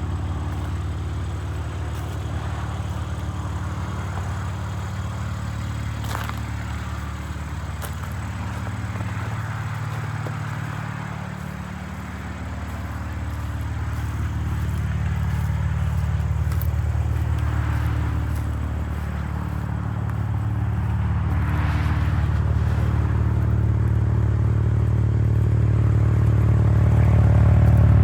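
BMW M3 Competition's 3.0-litre twin-turbo inline-six running with a steady low drone that swells and eases gently, growing louder toward the end.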